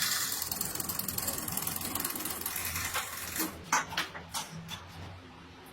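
A rapid mechanical rattle, like a ratchet or small gear mechanism, running for about three seconds and then fading, followed by a few separate sharp clicks.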